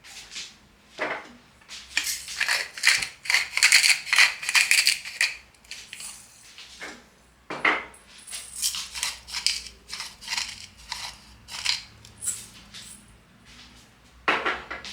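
Irregular rustling and clinking as small household objects are handled, with a few short pitched squeaks or scrapes among them.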